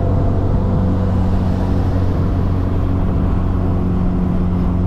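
MG Midget sports car driving at a steady speed: a steady engine note with road and wind noise.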